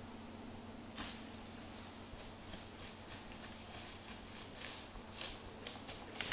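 Footsteps and rustling on a brushy slope while climbing down a hill, with a sharp snap about a second in and scattered lighter crackles after it.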